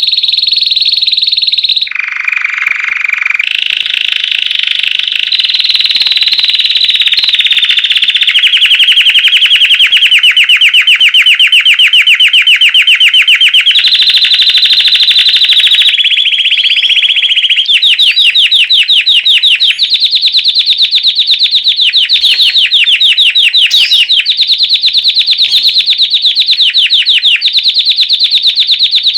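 Belgian canary singing a loud, unbroken song of rapid trills, in the bell-like 'campainha' style, switching to a new trill every few seconds.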